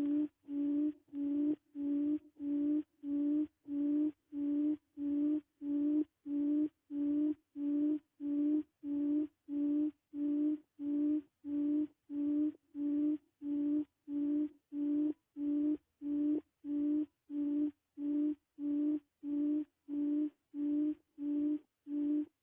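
Quail call used as a trapping lure: a low hooting note repeated very evenly, about twice a second.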